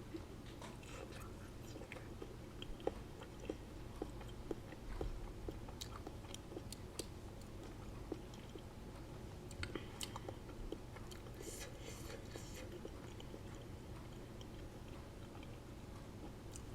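Close-up chewing and mouth sounds of a person eating black bean tacos, with many small wet clicks. The clicks are thickest over the first two-thirds and fewer near the end.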